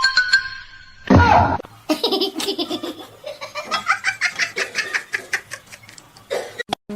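A person laughing hard in a long run of quick, rapid bursts of laughter.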